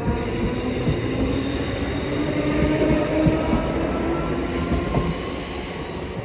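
A train running through the station: a steady rumble with several sustained whining tones over it, fading away near the end.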